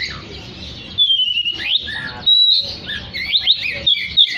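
Oriental magpie-robin (kacer) singing a loud, varied song of clear whistles and quick rising and falling sweeps. The song comes in strongly about a second in.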